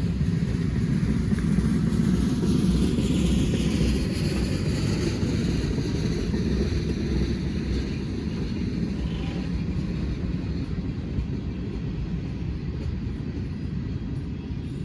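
Passing train: a steady low rumble that swells a couple of seconds in and then slowly eases off.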